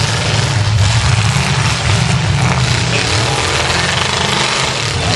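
Engines of several V8 demolition-derby cars running at once, loud and steady.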